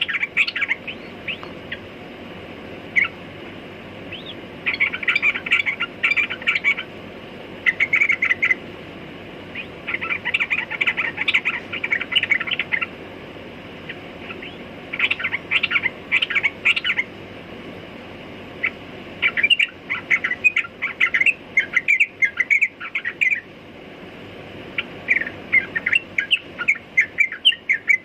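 Yellow-vented bulbul singing in repeated bursts of fast, bubbly chattering phrases, each one to three seconds long with short pauses between, over a steady low background hiss.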